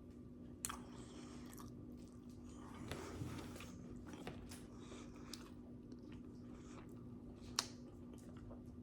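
A person chewing and biting food, faint, with a couple of sharp mouth or utensil clicks.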